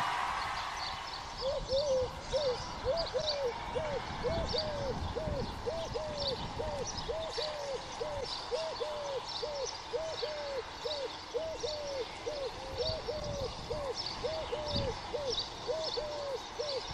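A bird calling in a long, even run of short notes, two to three a second, each note rising and then falling in pitch, with faint high ticks over it.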